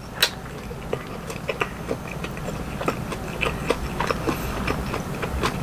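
A person chewing a mouthful of steamed dumpling, with many short wet smacking and clicking mouth sounds.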